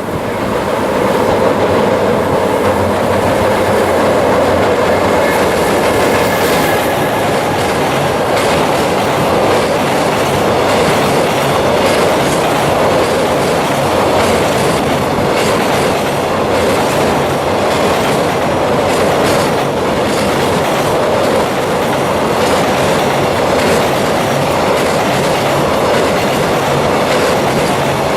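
JR Freight container train, hauled by an EF210 electric locomotive, running at speed across a steel railway bridge. The wheels make a loud, steady rumble with a rapid clickety-clack over the rail joints.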